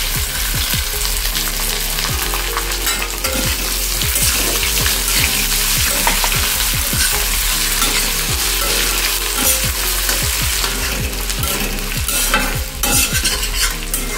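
Diced potatoes and fried dried fish sizzling in hot oil in a stainless-steel kadai. A steel spatula stirs them, scraping and knocking against the pan, more often near the end.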